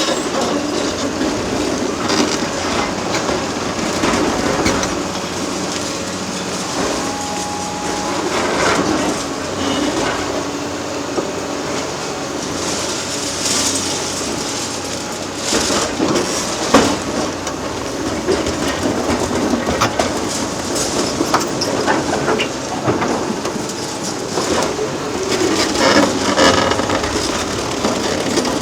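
Hydraulic demolition excavators breaking up a concrete bridge: diesel engines running under load, with concrete crunching and debris clattering and knocking irregularly.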